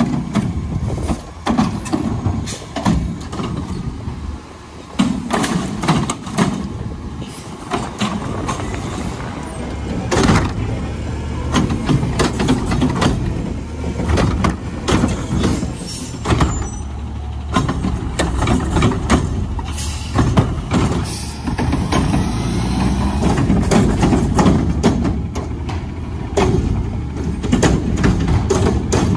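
Garbage truck working: a steady low engine rumble with frequent knocks and clatters through the whole stretch.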